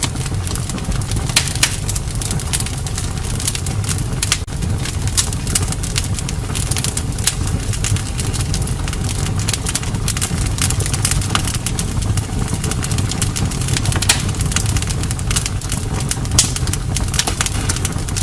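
Campfire crackling: many irregular sharp pops and snaps over a steady low rumble.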